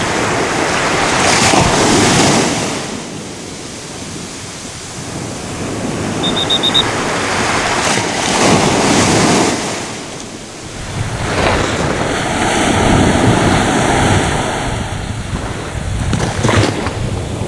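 Sea waves breaking and washing up and back down a beach, the noise swelling and fading in about four surges.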